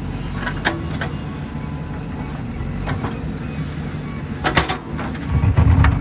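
JCB 3DX backhoe loader's diesel engine running steadily, with sharp metallic clanks, one under a second in and a quick cluster past the middle. The engine gets louder near the end as it works under load.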